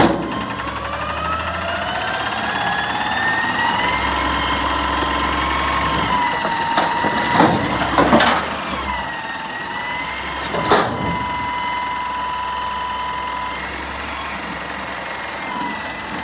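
Garbage truck running, with a whine that rises in pitch over the first few seconds and then holds steady, and a few sharp metal bangs around the middle.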